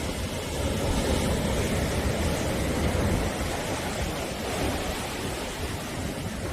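Sea waves breaking and washing on the shore: a steady rushing surf with a deep low rumble, swelling a second or so in and easing off toward the end.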